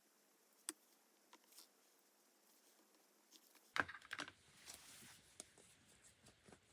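Quiet desk-work sounds of paper crafting: a few light, scattered clicks, then near the middle a quick cluster of sharper taps followed by soft paper rustling and handling.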